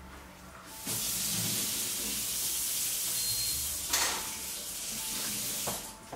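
A steady hiss, like rushing water or sizzling, starting about a second in and stopping just before the end, with a brief louder swell about four seconds in.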